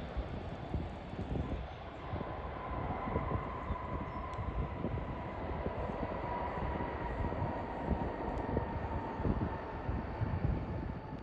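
Jet airliner engines, a steady rumble with a thin whine that drifts slightly lower in pitch toward the end.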